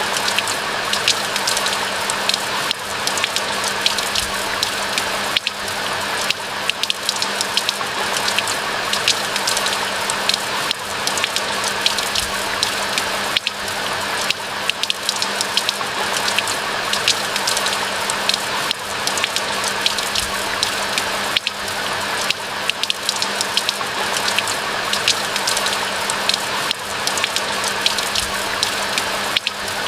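Steady rain falling in a pine forest, a continuous hiss with many close, crisp raindrop ticks.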